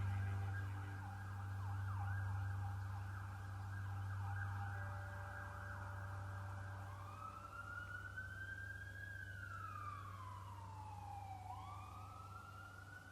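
Emergency-vehicle siren, fast rapid sweeps at first, then a slow wail rising, falling and rising again, over a steady low hum.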